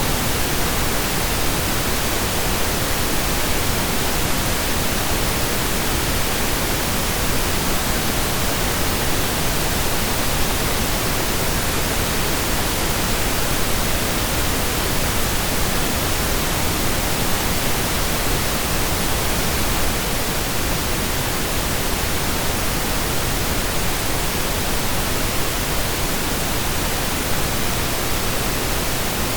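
Steady synthesized pink noise: an even, unchanging hiss with equal energy per octave, like steady rain or a waterfall.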